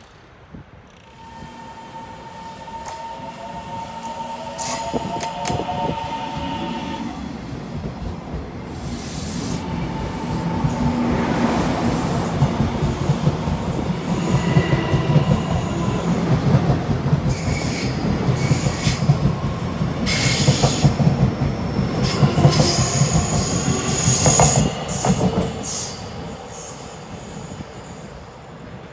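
Taiwan Railways train running along the track at a station. A high steady wheel squeal in the first few seconds, then a swelling rumble with rapid clacks of wheels over the rail joints. It grows loudest near the end and then falls away.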